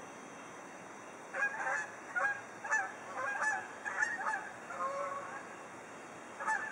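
Geese honking: a quick run of short honks for a few seconds, then one more honk near the end.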